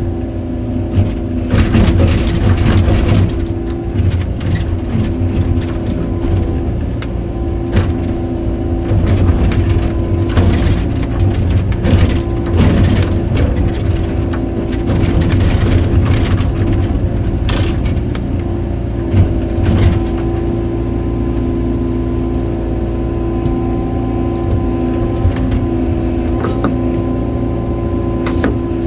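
Excavator's diesel engine running steadily under load, with loud knocks and cracks at intervals, several of them in the first few seconds and more around the middle.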